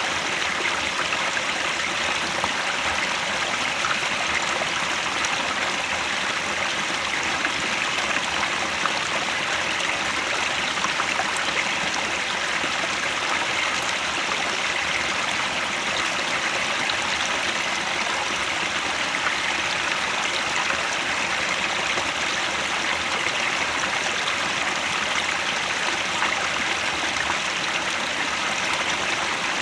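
Headwater stream flowing, a steady even rush of water.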